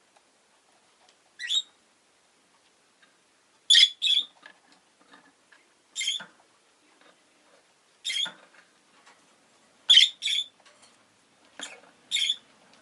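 Rosy-faced lovebird giving short, sharp, high-pitched chirps, about one every one to two seconds, some in quick pairs.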